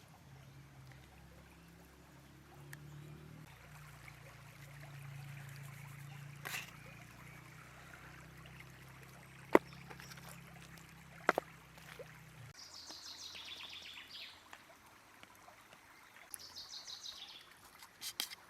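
Quiet riverside ambience with a low steady hum that cuts off suddenly about two-thirds of the way through. Two sharp clicks sound in the middle, and near the end a bird gives two short trilled calls.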